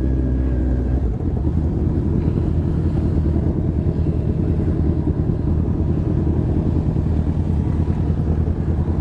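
Motorcycle engines running: a steady hum for about the first second, then a choppier, uneven low rumble.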